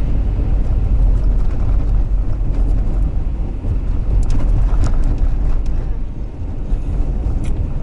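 Steady low rumble of engine and tyre noise inside a vehicle driving on snow-covered roads in a blizzard, with a few faint clicks around the middle and near the end.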